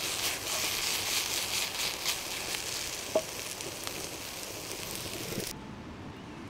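Small green pimientos peppers sizzling and crackling in a hot pan over a wood fire as they are tossed. There is one sharp pop about three seconds in. The sizzle cuts off suddenly near the end.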